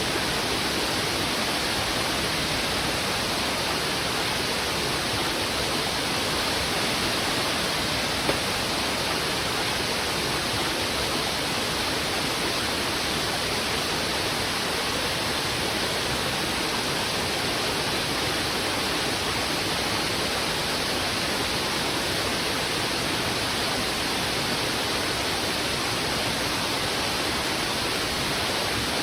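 Fast, heavy river current rushing over rocks, a steady unbroken rush of water.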